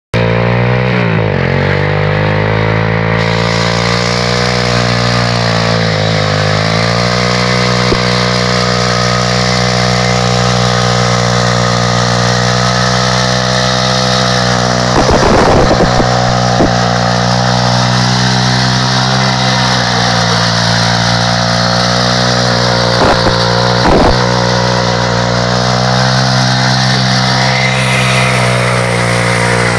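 X-motos XB33 140cc single-cylinder four-stroke pit bike engine held at high revs in a burnout, with a steady hiss of the rear tyre spinning against the ground. The revs dip and pick back up near the start and again about six seconds in, and a few short sharp cracks come in the second half.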